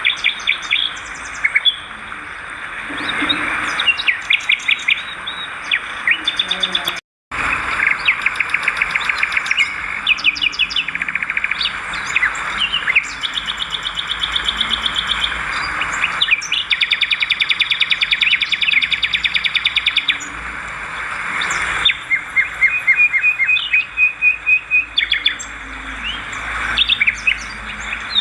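Swiftlets twittering: dense, overlapping trains of rapid high chirps and clicks, some in long, evenly spaced runs. The sound cuts out completely for a moment about seven seconds in.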